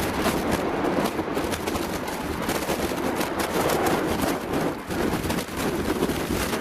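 Storm-force wind gusting against an outdoor microphone: a steady rushing noise full of sharp crackling pops.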